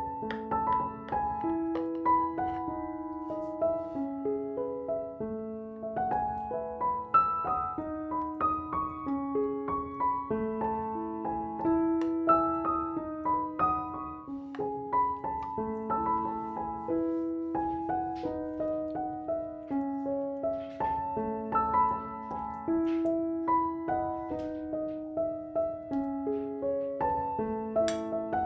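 Background piano music: a melody of held notes moving over a repeating pattern.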